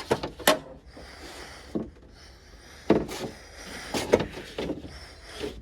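Scattered knocks and clunks as parts inside a truck door are handled and shifted, about seven sharp hits at uneven gaps.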